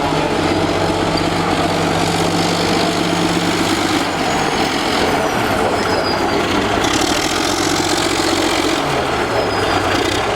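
Old Caterpillar D8 bulldozer's diesel engine running loud and steady, its pitch shifting about four seconds in and again near the end.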